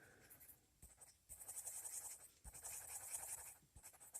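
Faint scratching of a colored pencil shading on paper, in short spells of strokes with brief pauses.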